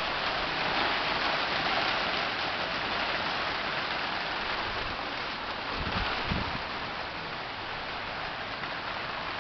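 Heavy rain falling steadily, a dense, even hiss, with a couple of brief low thumps about six seconds in.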